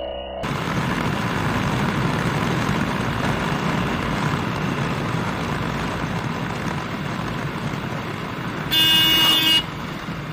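Steady rush of road and wind noise from a moving motorcycle in traffic. A vehicle horn sounds once for under a second near the end.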